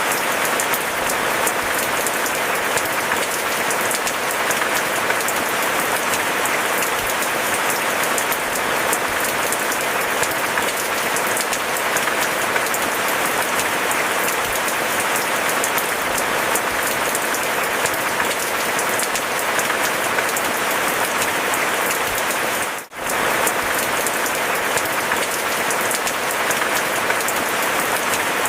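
Steady rain falling, a dense patter of many individual drops. There is a brief dip in level about three-quarters of the way through.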